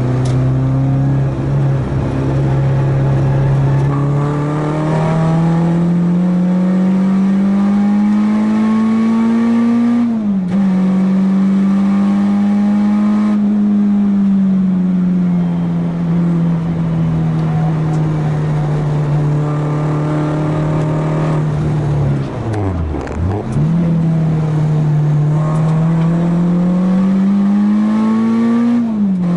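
Four-cylinder track car engine at hard throttle. The revs climb steadily to an upshift about ten seconds in, then sag slowly. They drop sharply and recover about two-thirds of the way through, then climb again to another upshift at the end.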